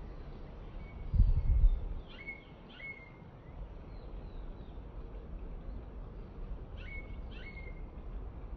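Small birds calling in short, falling chirps, two pairs of calls about five seconds apart, over a steady low outdoor rumble. A brief low rumble about a second in is the loudest sound.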